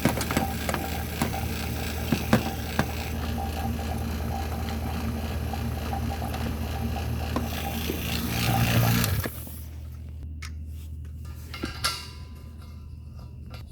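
Car engine running steadily, with scattered small clicks and knocks of tools and fittings; the engine sound swells briefly and then stops abruptly about nine seconds in, leaving a quieter stretch with faint steady tones and a few clicks.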